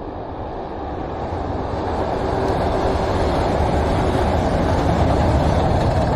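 113 series electric train in yellow livery rolling across a steel truss railway bridge: a steady rumble that grows louder as the train comes closer and is loudest near the end.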